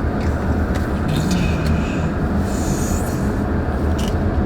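Car cabin noise while driving slowly: a steady low road and engine rumble, with a few faint high squeaks or clicks.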